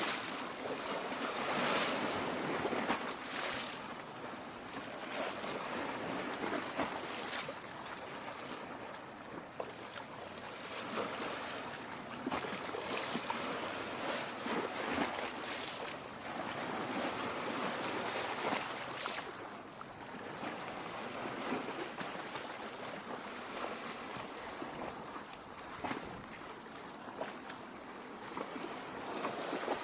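Small waves lapping at a lake shore: a continuous wash of water full of small splashes, swelling and easing every few seconds.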